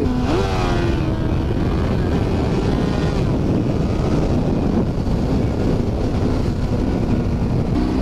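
Honda CBR600RR's inline-four engine revving up hard as the bike accelerates, the pitch climbing steeply just after the start and climbing again around three seconds in. Wind on the microphone then covers it at speed, and near the end the engine returns at a lower, steady pitch as the bike slows.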